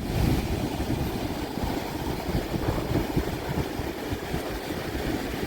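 Wind buffeting the microphone: an uneven low rumble with irregular gusts.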